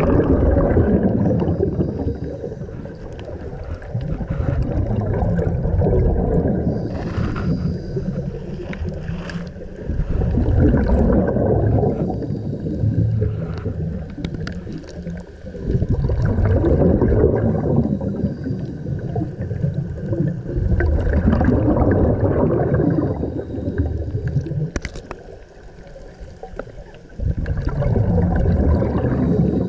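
Scuba diver breathing underwater through a regulator: gurgling, rumbling bursts of exhaled bubbles come about every five seconds, with quieter stretches of inhalation in between.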